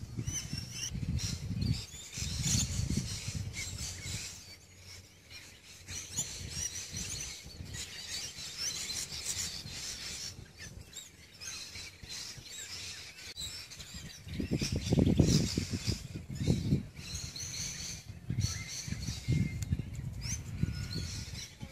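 Birds chirping and calling, with patches of low rumble on the microphone, the loudest about fifteen seconds in.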